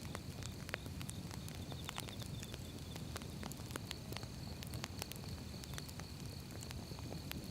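Wood fire burning: irregular sharp crackles and pops from the burning logs over a low, steady rumble of the flames. A faint, steady, high-pitched trill runs in the background.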